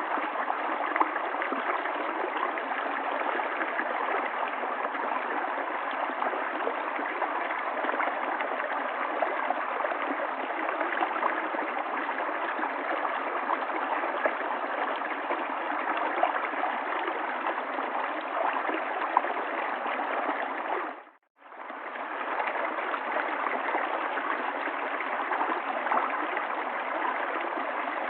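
River water flowing and gurgling steadily, with small splashes. About three-quarters of the way through, it briefly fades out and straight back in.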